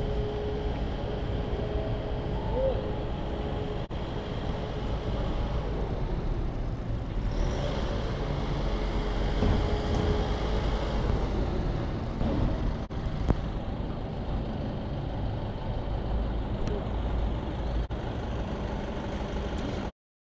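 Street ambience of road traffic: a steady low rumble that swells as a vehicle passes about halfway through, then cuts off abruptly near the end.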